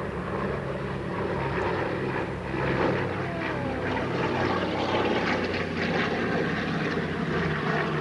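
Propeller airplane engine running steadily as it flies past, a little louder from about three seconds in.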